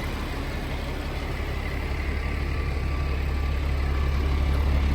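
Caterpillar diesel engine of a Freightliner FL80 truck idling steadily, a deep low hum that grows gradually louder.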